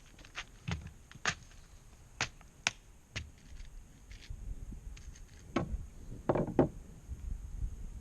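Irregular sharp clicks and knocks, about ten of them, with a louder cluster around six seconds in.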